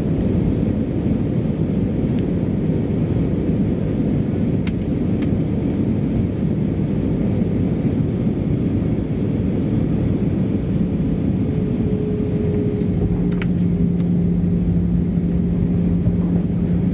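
Steady cabin rumble inside an Airbus A320-214, the drone of its CFM56 engines and the rush of air along the fuselage. About 12 seconds in, a steady low hum joins it and holds.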